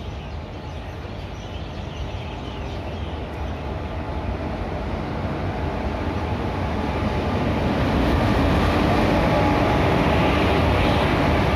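Indian Railways train running on the track, a steady rumble with rushing noise that grows louder over about eight seconds as it draws near, then holds at a loud level.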